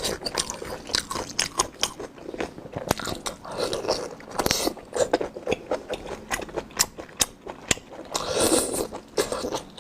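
Close-miked mouth sounds of a person chewing and biting food: a dense, irregular run of crisp crunchy clicks, with two longer, louder stretches near the middle and about 8.5 seconds in.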